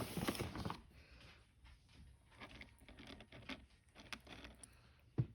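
A cat crunching dry kibble: many small irregular crunchy clicks, after a brief rustle at the start, with one soft thump near the end.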